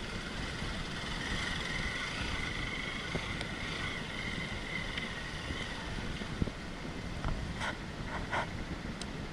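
Wind rumbling on the microphone, with a steady high drone that fades out about six seconds in and a few short sharp chirps or clicks near the end.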